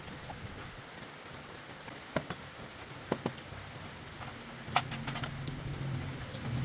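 A few sharp clicks and knocks over steady background noise, with a low hum coming in about two-thirds through.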